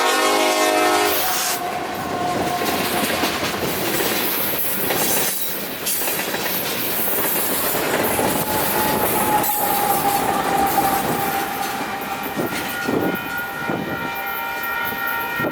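Nathan Airchime K5LLA horn on an EMD SD70ACe locomotive ending its blast about a second in, followed by the train's cars rolling past with a steady rumble and clatter of wheels on rail. A set of high steady tones comes in near the end.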